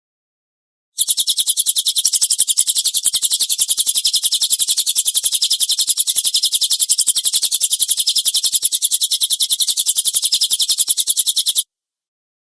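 Recorded songbird 'tembakan kasar' call used as masteran: a fast, even, rapid-fire train of sharp high-pitched notes, about nine a second. It starts abruptly about a second in and cuts off abruptly about ten seconds later.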